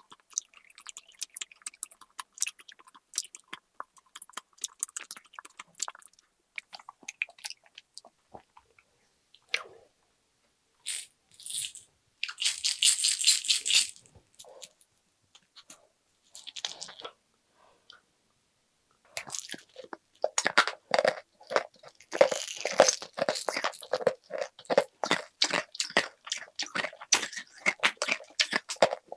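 Close-miked chewing of sweets, with many small crisp clicks. About halfway through there is a short loud rustling burst, and the last third holds a dense run of crunching and clicking.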